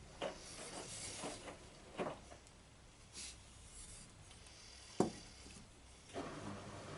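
Wooden workpiece and dowel being handled: scattered light knocks and rubbing, with one sharp knock about five seconds in. A steady low hum starts near the end.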